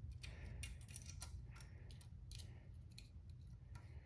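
Faint, scattered metallic clicks and scrapes as a steel exhaust spring is stretched and hooked onto its mounts.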